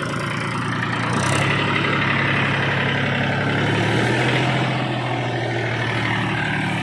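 Mahindra 265 DI tractor's three-cylinder diesel engine running steadily, picking up revs about a second in, holding there for a few seconds, then easing back slightly.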